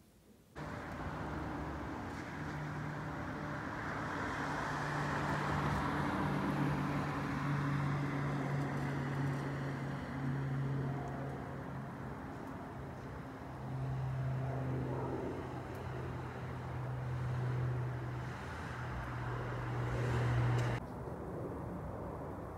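A steady engine drone with a low hum that shifts in pitch a few times, over a broad rushing noise. It starts and stops abruptly.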